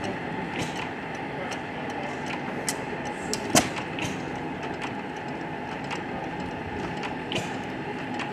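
Antique hit-and-miss gas engines running: a steady mechanical clatter with sharp clicks at irregular intervals, the loudest a single crack about three and a half seconds in.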